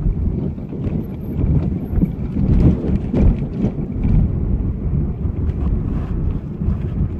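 Wind buffeting the microphone over the rumble of a moving car on the road, with a few faint clicks around the middle.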